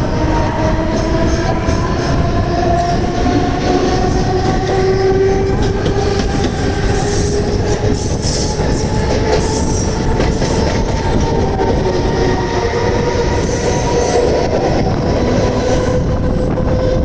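Mumbai suburban electric multiple-unit train running, its traction motors whining in several tones that rise slowly in pitch as it gathers speed, over a steady rumble of wheels on the track.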